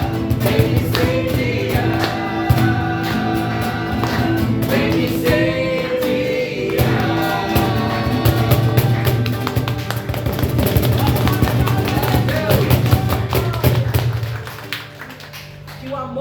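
Christian worship song: voices singing over a band with a steady beat, dropping away about two seconds before the end.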